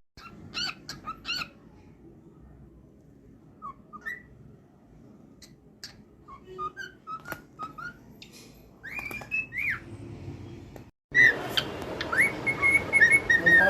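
Male cockatiel whistling and chirping: scattered short chirps and sliding whistled notes, then, after a brief break, a louder run of whistled song near the end.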